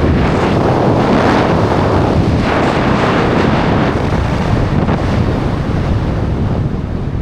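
Loud wind buffeting the microphone as air rushes past during a parachute descent: a steady rushing roar, easing slightly near the end.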